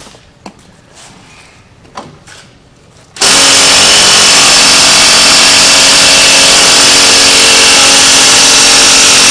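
Impact wrench hammering steadily on a seized wheel-hub bolt, which does not break loose. It starts abruptly about three seconds in and is very loud.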